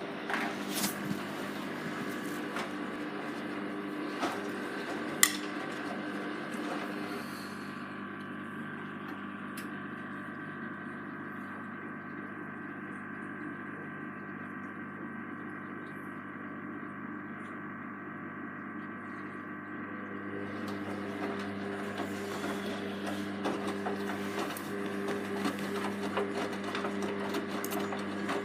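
Hoover Vision Tech washing machine running its wash cycle: a steady motor whine as the drum turns the load, with a few sharp clicks in the first few seconds. The brighter, hissy part of the sound dies away about seven seconds in and comes back about twenty seconds in.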